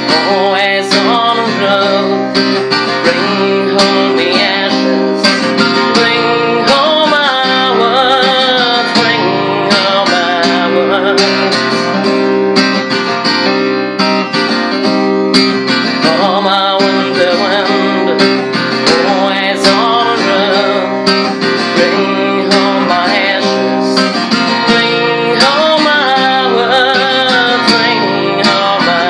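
Acoustic guitar music, a steady run of plucked notes and chords with no break.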